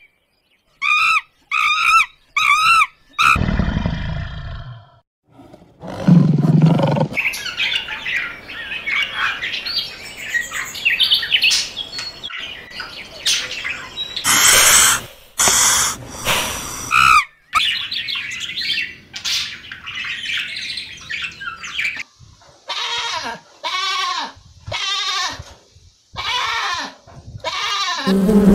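A string of different animal calls, mostly bird chirps and calls, broken a few seconds in by a low, drawn-out animal call, then more rapid chirping and a run of repeated arching calls near the end.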